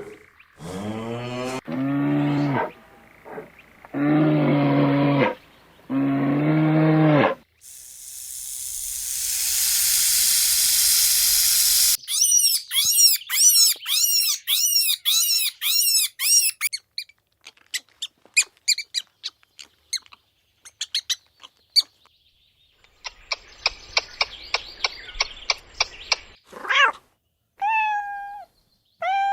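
A series of different animal sound effects. First come several long cow moos, then a rising, breathy, roar-like hiss, then a quick run of repeated chirps and scattered clicks. A buzzing patch follows, and short meow-like cat calls come near the end.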